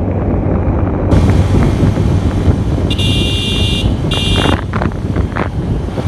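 Wind buffeting the microphone over the steady rumble of a moving motorcycle and road traffic. A horn sounds twice: a longer blast about three seconds in and a shorter one just after four seconds.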